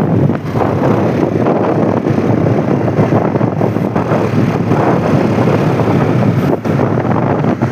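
Wind rushing and buffeting over the microphone on a moving Royal Enfield Bullet motorcycle, with the engine running beneath it.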